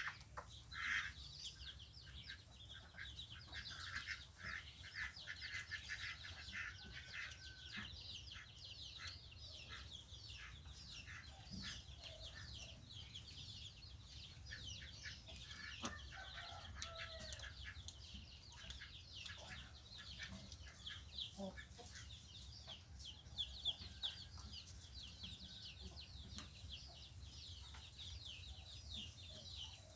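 White-breasted waterhens calling in a small aviary: many short calls repeated in quick series, several birds overlapping, over a steady low hum.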